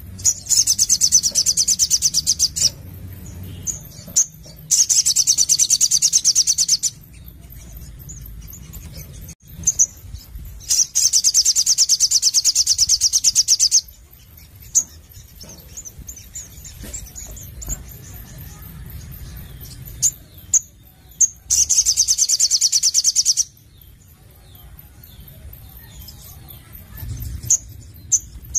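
Little spiderhunter (sogon) singing: four long, very rapid high trills of two to three seconds each, with short single sharp chips between them.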